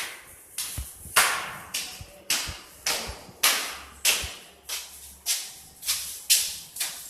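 A run of sharp clacks or knocks, about two a second and slightly uneven, each ringing briefly as in a hard-walled room.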